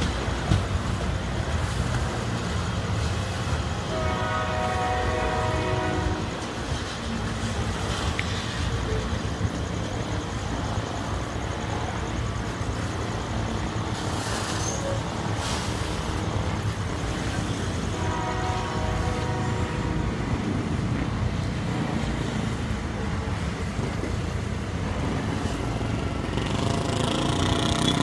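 Freight train of grain hopper cars rolling past, with a steady rumble of wheels on the rails. A train horn sounds twice, each blast about two seconds long, about four seconds in and again near eighteen seconds.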